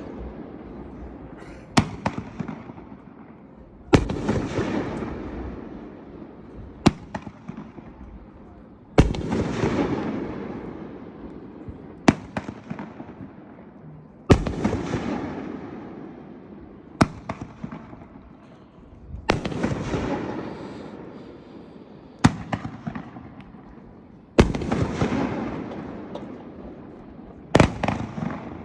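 Firework 'Feel the Noise', a rack of aerial shots, firing in a steady series. A loud boom comes about every five seconds, each trailed by a long fading rumble, with a single sharper crack between each pair, about eleven reports in all.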